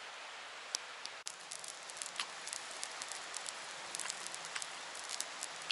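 Shiso-wrapped pork rolls frying in hot oil: a steady sizzle with many small sharp pops and crackles, which come thick and fast from about a second in.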